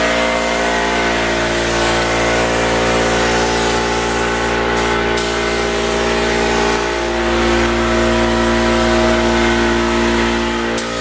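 Air compressor motor running steadily under the hiss of a paint spray gun. The spray hiss stops briefly about halfway through and again near the end as the trigger is let go.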